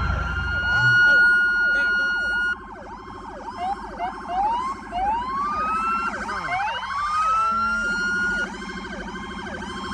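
Several police car sirens sounding at once, loud: a fast repeating yelp overlaps with slower rising wails that climb and hold a high note.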